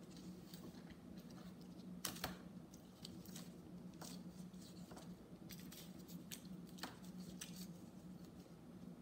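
Faint crinkling and clicking of a small foil candy wrapper being handled, with a sharper pair of crackles about two seconds in. A steady low hum runs underneath.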